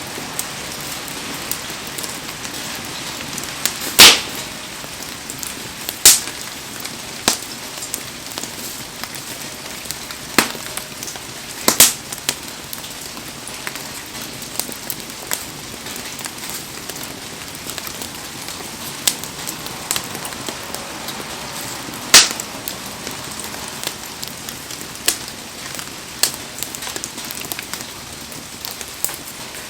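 Steady hiss of heavy rain over a wood bonfire, with sharp pops from the burning wood every few seconds; the loudest come about 4, 6, 12 and 22 seconds in.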